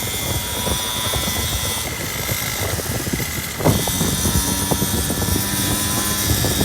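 Dirt bike engine running, with a steady engine note settling in about halfway through after a brief knock.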